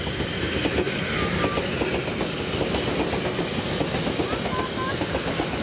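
Tobu 100 series Spacia electric limited-express train passing close by, with steady wheel-on-rail rolling noise and a rapid run of wheel clicks over the rail joints.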